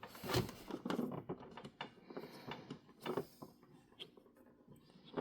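Small screwdriver backing screws out of a plastic toy car body: irregular light clicks and scrapes, a few sharper ticks among them.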